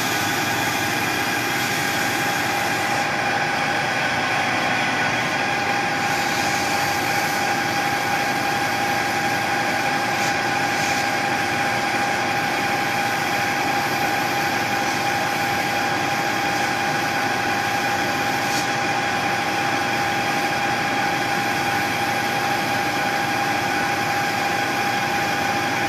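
Metal lathe running steadily with an even whine while a spinning aluminium shift knob is given a brushed finish with 120-grit abrasive.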